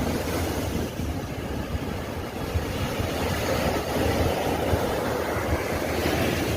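Sea waves washing, with wind rumbling on the microphone.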